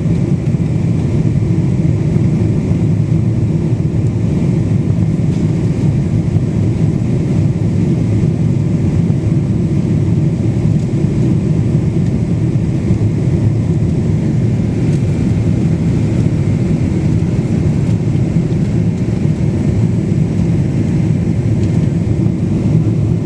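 Steady, loud drone of engines and rushing air inside the cabin of a Boeing 777-200 airliner in flight.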